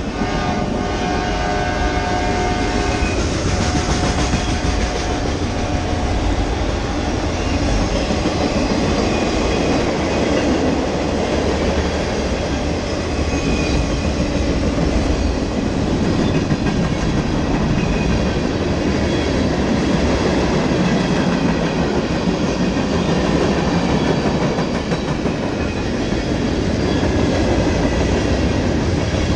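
Freight train led by GE diesel locomotives passing close by: its air horn sounds for about the first three seconds, then a steady loud rumble of engines and wheels on rail, in heavy rain.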